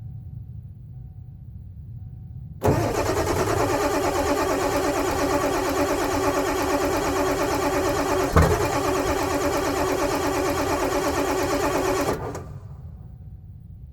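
A 1996 Ford F350's 7.3 L Powerstroke V8 turbodiesel is cranked on its starter for about nine and a half seconds. The cranking starts and stops abruptly, with one sharp knock about two-thirds of the way through. It is a hard cold start with worn-out glow plugs.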